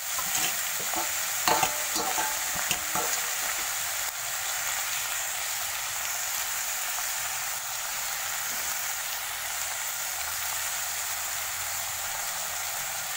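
Sliced bitter gourd and onions sizzling steadily in hot oil in a pan, with a metal spatula scraping and clinking against the pan during stirring in the first few seconds.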